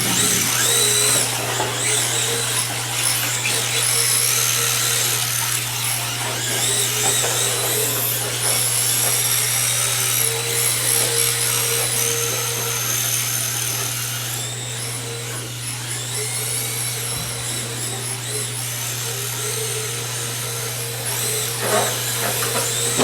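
Electric motors of RC drift cars whining, the high pitch rising and falling as the throttle is worked, with more than one car running. A steady low hum lies underneath.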